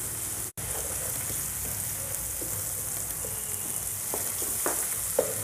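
Eggs frying in ghee with chopped onion, tomato and green chilli in a frying pan, a steady sizzle, while a spatula stirs them and scrapes lightly across the pan a few times near the end. The sound cuts out for an instant about half a second in.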